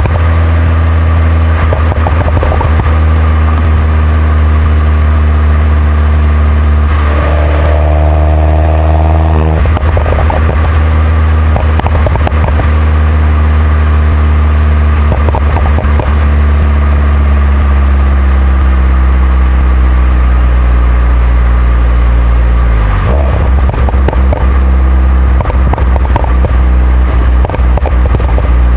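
2011 Mini John Cooper Works R57 with its 1.6-litre turbocharged four-cylinder running through the stock exhaust while driving. The engine note rises briefly about a quarter of the way in, sinks slowly past the middle, and changes pitch sharply again about two-thirds of the way through.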